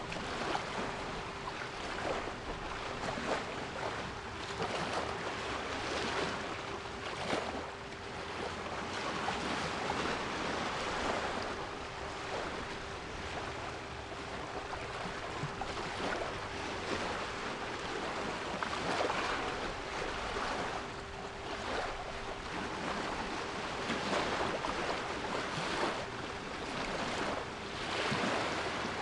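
Sea waves washing in, a rushing noise that swells and eases every few seconds, with a steady 396 Hz pure tone held underneath throughout.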